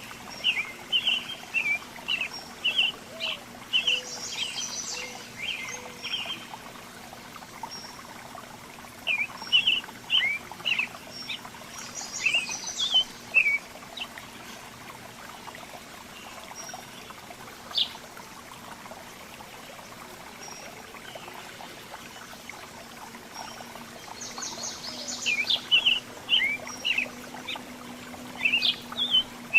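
Songbirds chirping in three bouts of rapid short notes, with quieter gaps between them, over a steady low hum.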